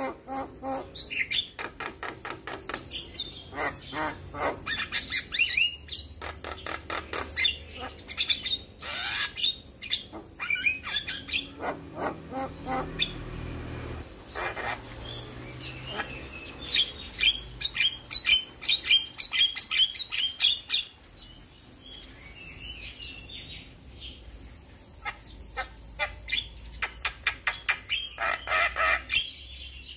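Javan myna singing: fast runs of short chattering, clicking and squeaky notes with some harsher squawks, with a quieter spell about two-thirds through.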